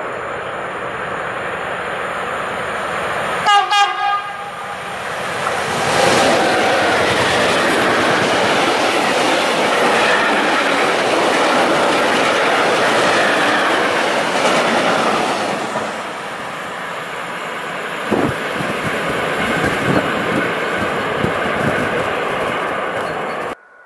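Freight train hauled by an electric locomotive: a short horn blast about three and a half seconds in, then the train passing close by as a long, loud rushing rumble of freight wagons, with wheel clicks over the rail joints near the end.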